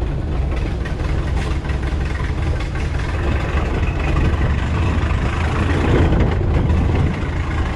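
Jeep CJ7's engine running steadily at low revs with a deep, even note.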